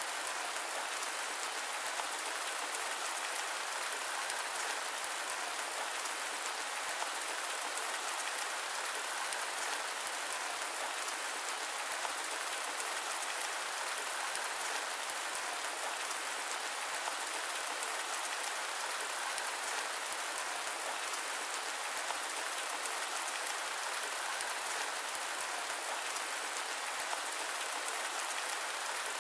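Steady rain falling on a surface, an even hiss with no thunder, low end cut away.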